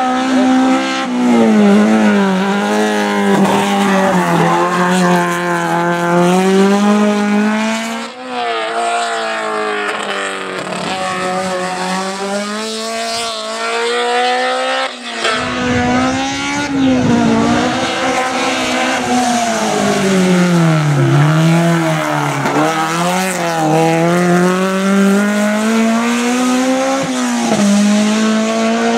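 BMW E30 M3's four-cylinder racing engine driven hard, its revs climbing and dropping over and over through the run.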